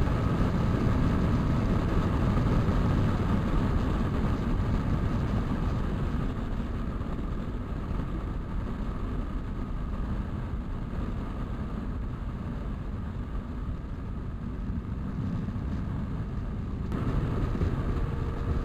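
Motorcycle on the move: the engine runs steadily under a heavy rush of wind and road noise, and the sound shifts abruptly near the end.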